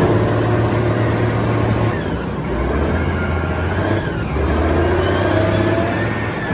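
A large vehicle's engine running and revving, its pitch shifting a few times, with a whining tone that glides up and down over the engine noise.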